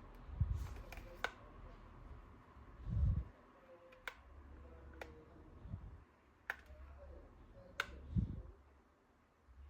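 Plastic toy parts being handled: scattered sharp clicks with a few dull thumps as pieces are moved and set down.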